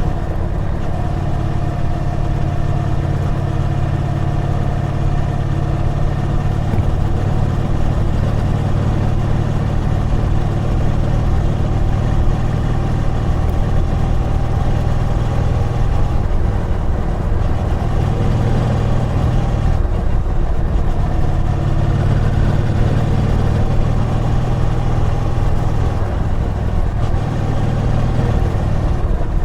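Triumph Bonneville T120 parallel-twin engine running steadily under way, its pitch rising and falling gently with the throttle and dipping briefly about two-thirds of the way through.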